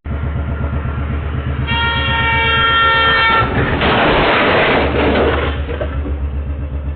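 A horn blast of about a second and a half over a steady heavy engine rumble, followed by a loud noisy rush lasting about two seconds.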